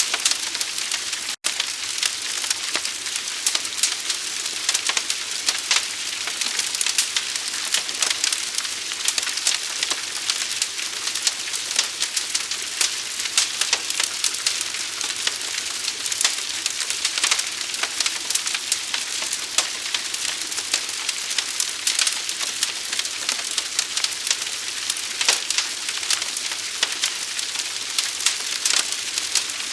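Forest fire burning: dense, rapid crackling over a steady hiss. The sound cuts out for an instant about a second and a half in.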